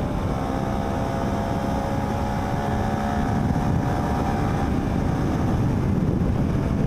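Sport motorcycle cruising at a steady speed: the engine's drone holds a steady pitch under heavy wind rumble on the helmet-mounted microphone.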